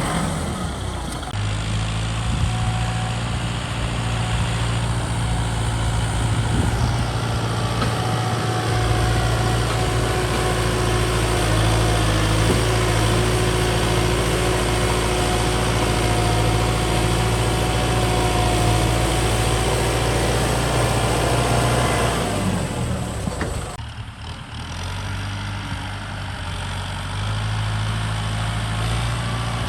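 Kubota ZT155 DI single-cylinder diesel engine of a two-wheel hand tractor running steadily. It eases off for a few seconds about three-quarters of the way through, then picks up again.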